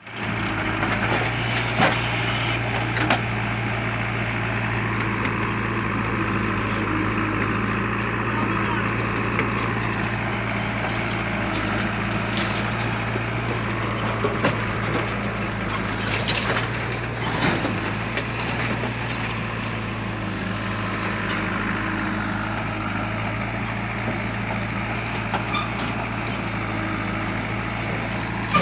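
Heavy diesel engine of a tractor or JCB machine running steadily at an even speed, with a few short knocks and clicks over it.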